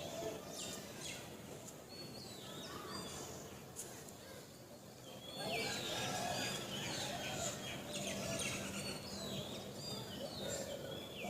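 Small birds calling and chirping, many short notes that slide down in pitch, coming thicker and louder about halfway through, over steady outdoor background noise.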